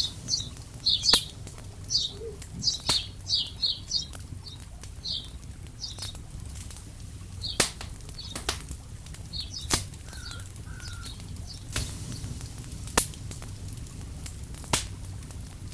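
Birds chirping in short, quick notes, thinning out after the first half, with scattered sharp snaps and a steady low rumble underneath.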